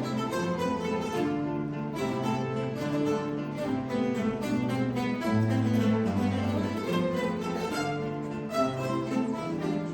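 Ensemble of acoustic guitars playing a waltz, with a bass line under plucked melody and chords.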